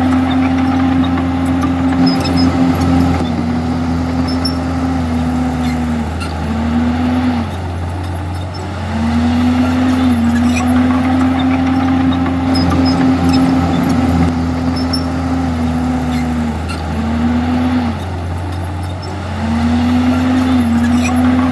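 Komatsu D51EX bulldozer's diesel engine running hard, its note holding steady, then dipping and falling away before climbing back up; the cycle repeats about every ten seconds, twice here.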